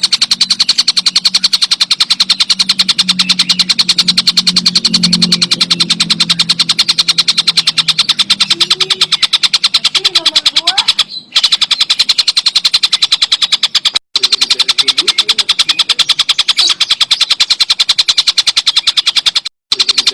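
Tengkek buto kingfisher giving a rapid, evenly paced chattering call, a dense run of sharp repeated notes with no let-up. Three brief cuts break the run.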